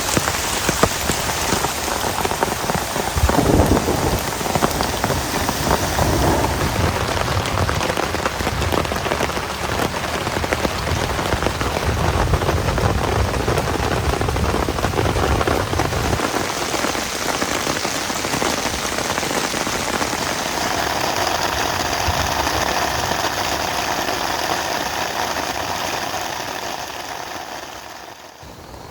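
Heavy rain falling steadily, a dense hiss of drops on surfaces, with a low rumble underneath through the first half. It dips quieter near the end.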